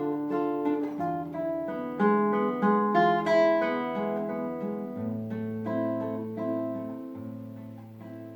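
Solo classical guitar playing a slow piece of plucked notes and chords over a low bass. The playing grows gradually quieter through the passage.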